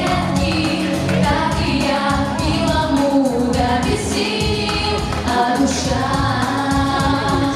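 Female vocalists singing a pop song over instrumental accompaniment with a steady beat.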